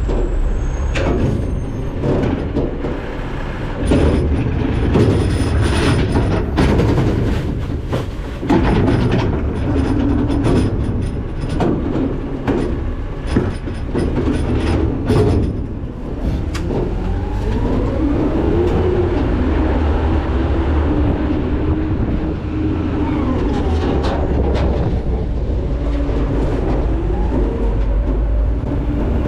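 McNeilus ZR rear-load garbage truck with its engine running under a steady low rumble. Trash clatters and bangs into the hopper in many sharp knocks over the first half. After that the sound turns steadier, with a wavering, gliding machine whine as the packer works.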